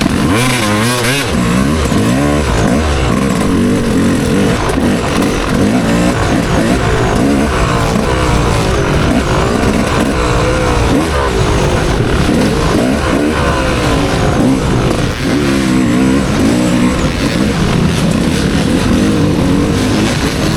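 Motocross bike's engine revving up and falling off again and again as it is ridden round the track, over a steady rush of noise.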